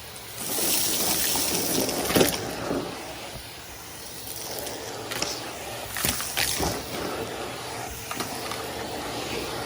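Numatic Henry canister vacuum running and sucking up crunchy debris, with a louder rush of air for the first few seconds and scattered sharp clicks and rattles as bits are drawn up the hose.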